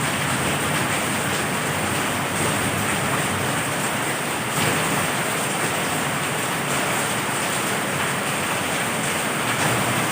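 Heavy rain falling in a steady downpour, a dense even hiss with small swells in level.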